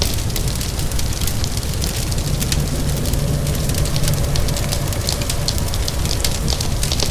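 Wood fire crackling with frequent sharp pops, over a steady low rumble and the hiss of rain. A faint low hum swells and fades in the middle.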